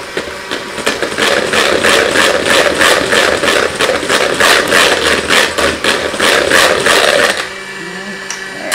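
Electric mixer running on high, whipping heavy cream and powdered sugar toward stiff peaks, with a steady rhythmic rattle of the beaters. It switches off about seven seconds in.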